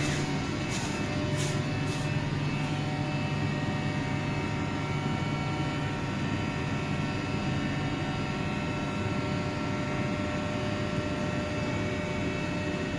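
Machinery running steadily: an even mechanical hum and rush with several steady tones in it, and a few faint clicks in the first two seconds.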